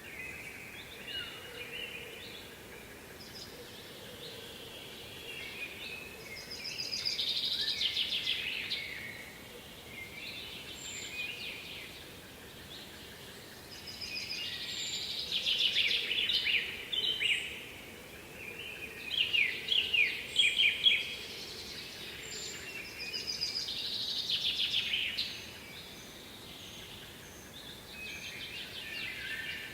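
A songbird singing loud, rapid trilled phrases a few seconds long, repeated about five times with short pauses between, over faint steady background noise.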